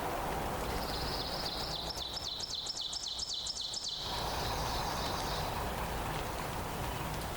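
A songbird singing a high-pitched phrase of quick repeated down-slurred notes, about five a second, for a few seconds over a steady low rushing background.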